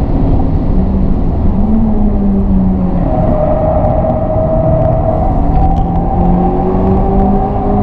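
Honda Civic Type R FK8's 2.0-litre turbocharged four-cylinder engine heard from inside the cabin over wind and tyre noise, slowing hard from high speed. The engine note jumps up about two seconds in on a downshift, holds fairly steady through a corner, then climbs again near the end as the car accelerates out.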